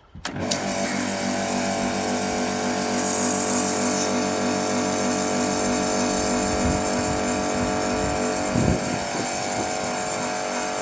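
Pressure washer starts suddenly just after the start and runs steadily. Its pump motor hums under the hiss of the water jet spraying the boat's carpet.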